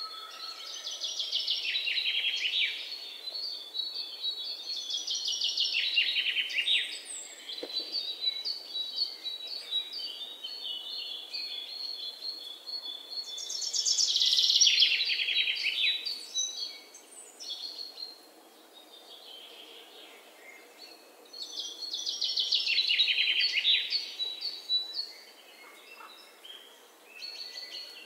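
A bird singing: a fast trill that falls in pitch, given four times, with a thin steady high chirping between the songs.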